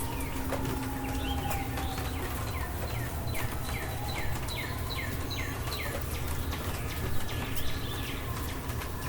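Steady rain falling, with scattered drips and ticks. In the middle, a songbird sings a run of about ten quick falling notes.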